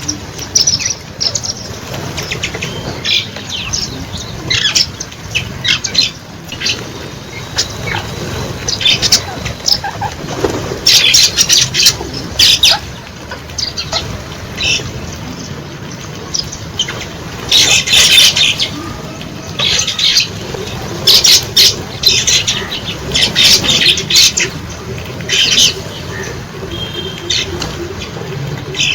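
A flock of birds squawking and calling, with short shrill calls coming in bursts every second or so and overlapping.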